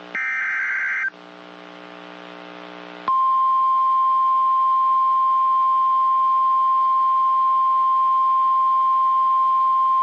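Emergency alert header data burst, a harsh buzzy screech lasting about a second, followed about three seconds in by the weather radio warning alarm: a single loud, steady high beep that holds on. The pair signals the start of an official severe weather warning broadcast.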